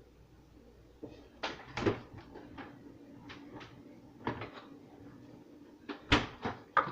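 A string of knocks and clatters from kitchen items being handled, starting about a second in and loudest near the end, with a hard knock about six seconds in.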